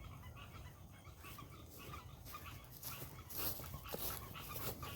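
Siberian husky making quiet dog sounds: a run of short breathy noises that grow louder a little past the middle.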